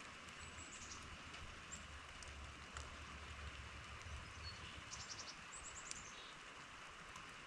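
Faint steady rush of running water, with a few high, thin bird chirps over it, including a quick run of notes about five to six seconds in.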